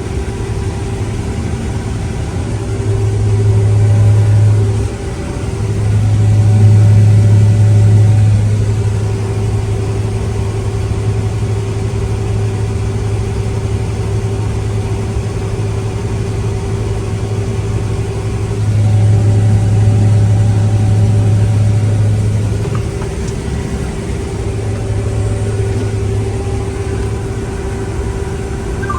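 Combine harvester running steadily under harvest load, heard as a constant low engine drone with a steady whine above it, swelling louder a few times.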